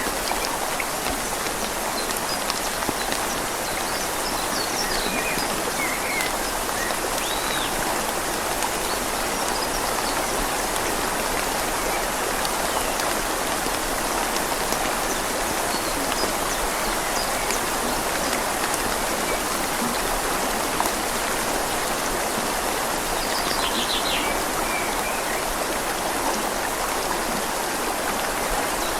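Steady rain pattering on leaves over the even rush of a flowing river, with a few faint bird chirps.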